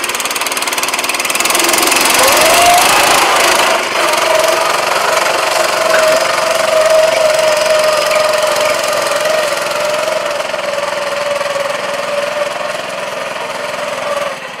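Farmall tractor's replacement 6.5 hp single-cylinder Honda-clone petrol engine running under throttle, its pitch rising about two seconds in and then holding steady at high revs. The sound drops back just before the end.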